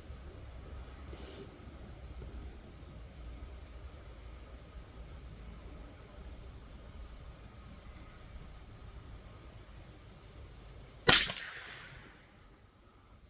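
A single .22 LR rifle shot about eleven seconds in, a sharp crack with a short ringing tail. Before it, a faint steady background of insects chirping.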